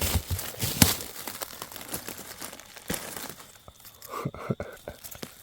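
Dry leaf litter, twigs and moss on the forest floor rustling and crackling as hands part it to pick mushrooms. The crackles are irregular and loudest about the first second.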